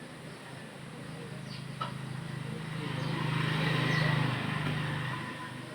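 A motor vehicle's engine passing by, swelling to its loudest about four seconds in and fading away again.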